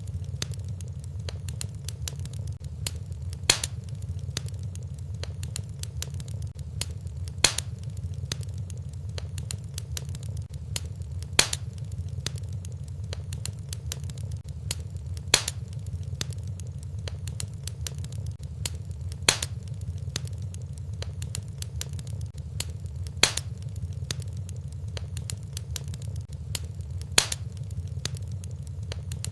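Wood fire crackling in a fireplace: a steady low rumble of flames under scattered small crackles, with a sharper pop about every four seconds.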